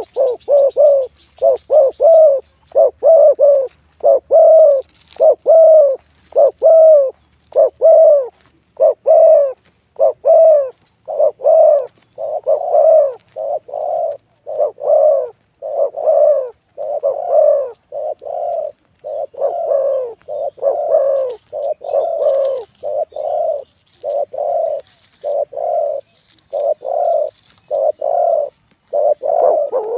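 Spotted dove cooing loudly in a long, unbroken run of short coos, about one to two a second.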